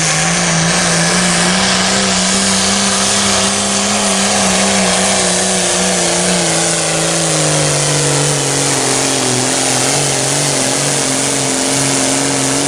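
Pulling tractor's engine running flat out under load during a pull, steady at first, then its pitch slowly falling through the second half as the sled drags it down.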